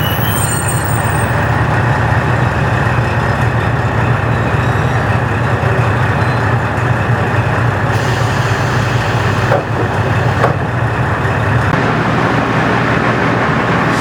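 KiHa 40-series diesel railcar with its original engine running, a steady low engine drone mixed with rolling noise. Two short knocks come about two-thirds of the way through.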